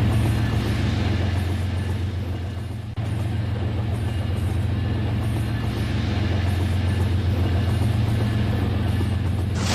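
Toy train running on its track: a steady electric-motor hum with running noise, and a couple of sharp clicks near the end.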